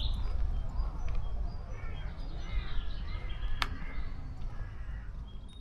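Outdoor spring woodland ambience: a bird gives several harsh, arching calls in the middle, over a steady low rumble of wind on the microphone, with one sharp click about three and a half seconds in.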